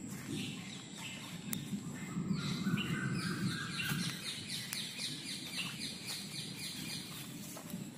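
Birds calling among trees, with a quick run of short, falling chirps at about four a second through the middle. A low rumbling noise sits on the microphone underneath.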